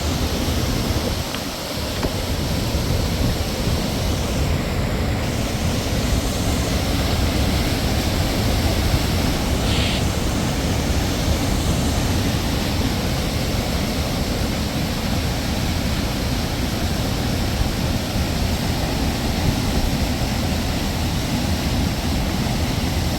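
Waterfall: a steady rush of falling water, with a brief dip a little over a second in.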